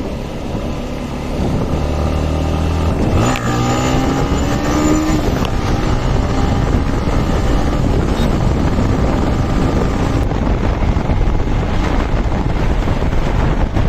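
Motorbike riding on the road, with heavy wind buffeting on the microphone and engine noise. About three seconds in, an engine note starts climbing in pitch, and it fades out near ten seconds.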